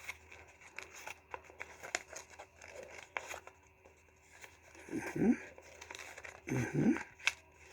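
Origami paper being handled and folded along its creases: intermittent soft crinkling and small sharp ticks of the sheet.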